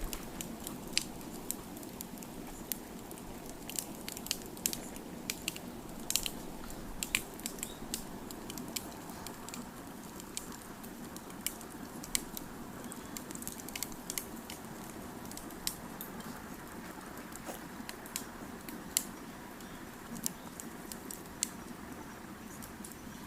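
Campfire crackling: many irregular sharp pops and snaps over a steady low rush of burning wood.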